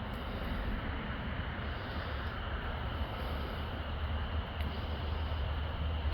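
Steady outdoor background noise: a low rumble with an even hiss above it, the rumble growing slightly toward the end.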